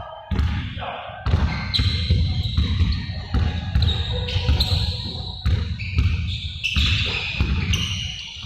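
Basketballs being dribbled on a hard indoor court, a rapid, overlapping run of bounces, with short high-pitched squeaks over them.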